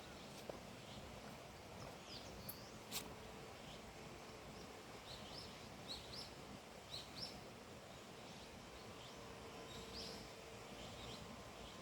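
Faint, scattered short chirps of small birds over a steady hiss of outdoor ambience, with one sharp click about three seconds in.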